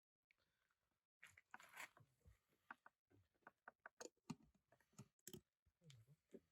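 Near silence, with a dozen faint, scattered clicks and taps.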